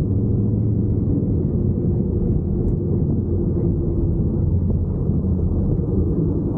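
Truck engine running steadily under load with a low rumble of tyres on dirt.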